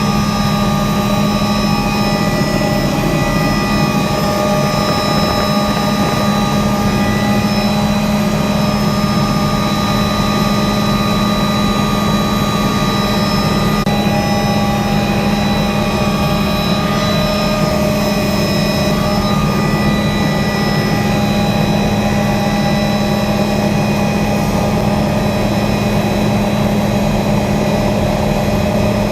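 Helicopter's turbine engine and rotors running steadily, a loud constant hum with a few high whining tones over it.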